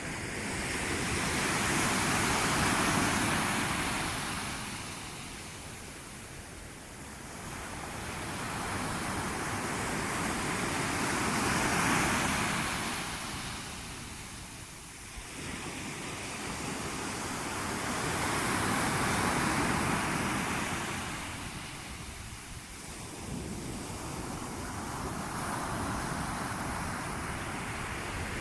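Sea waves breaking and washing up the shore, the surge swelling and fading slowly about four times, each wave lasting several seconds.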